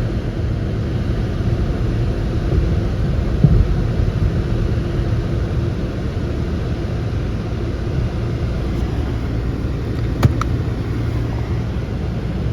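Volvo B5204T 2.0-litre turbocharged five-cylinder engine from a 2006 S60 running steadily, with a low thump about three and a half seconds in and a sharp click near ten seconds.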